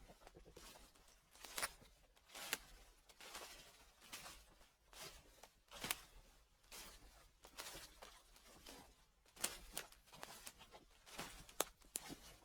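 Footsteps crunching through fallen leaves at a steady walking pace, about one step a second.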